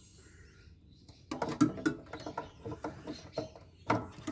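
Dismantling a solar inverter with hand tools: a quick, irregular run of small clicks, rattles and knocks of metal parts, starting about a second in.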